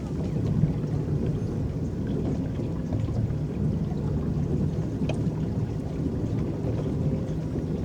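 Steady low churning and lapping of water against a small electric boat as its paddles drive it across the lake, with a faint click about five seconds in.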